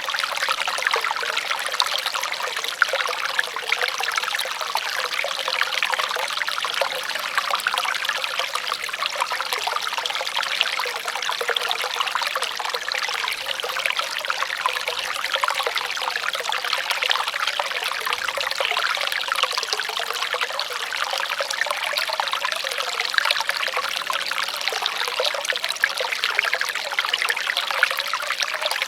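Shallow running water trickling and splashing steadily, an unbroken even rush with no let-up.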